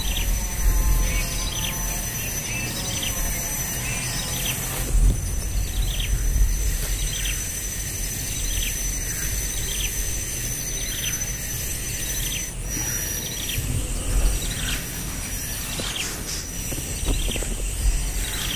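A bird chirping over and over, a short downward-sliding chirp every half second or so, over a steady high-pitched whine and low rumble.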